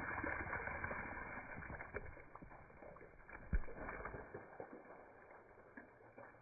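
Slowed-down, muffled slow-motion audio of water splashing over a coffee maker, a dull sloshing rumble with scattered clicks and one loud thump about three and a half seconds in, dying away toward the end.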